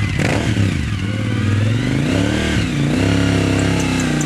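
2003 Suzuki SV1000S's V-twin engine revving, its pitch dipping and then climbing again about two seconds in.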